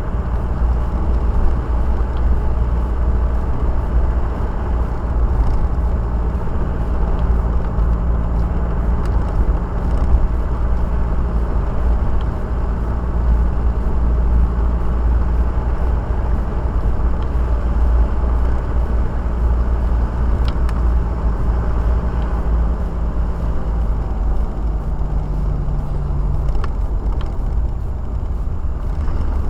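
A car driving, recorded from inside the cabin: a steady low rumble of engine and road noise with a faint hum, and a few light ticks.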